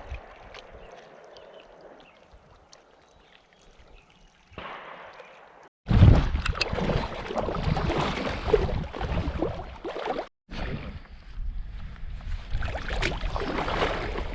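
Lake water splashing and sloshing, an irregular crackly noise, as a hooked fish is played. It starts quieter and jumps much louder about six seconds in, with a brief gap near ten seconds.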